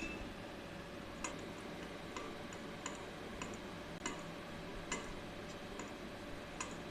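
Light, sharp clicks at irregular intervals, about nine of them, over a steady background hiss.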